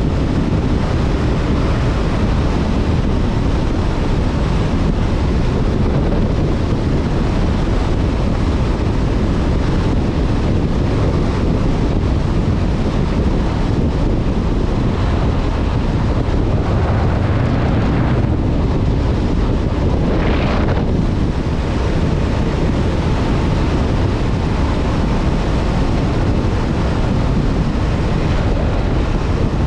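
Wind rushing over a helmet-mounted action camera's microphone at riding speed, over the running Honda CB500F parallel-twin engine. A brief swell about two-thirds of the way through.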